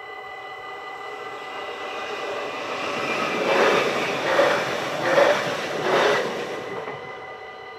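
NS passenger train passing at speed over a level crossing. It builds up, then comes in four loud surges about a second apart as the wheel sets go by, and dies away. The crossing's warning bell rings steadily throughout.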